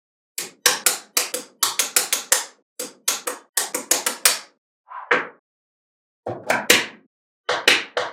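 Small magnetic balls clicking and snapping together in quick clusters of sharp clicks. A softer, duller sound comes about five seconds in, and more clicks follow near the end.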